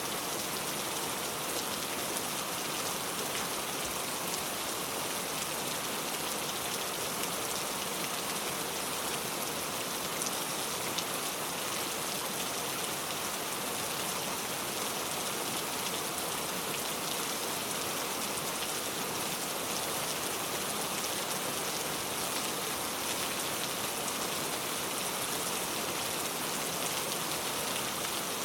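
Steady rain falling on a car: a dense, even hiss of drops with faint individual taps scattered through it.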